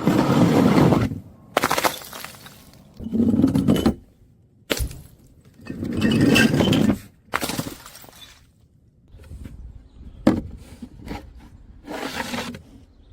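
Brittle objects, glass among them, being crushed and shattering: a run of crunching bursts about a second long each, with single sharp cracks in between.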